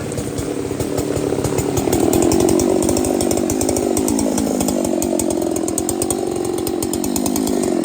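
Large two-stroke chainsaw running at full throttle, the revs climbing about two seconds in and then holding steady.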